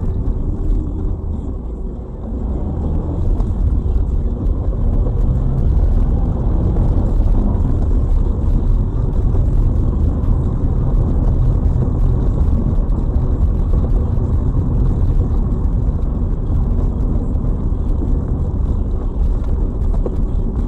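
A car driving, with a steady low rumble of engine and road noise and no sharp impacts.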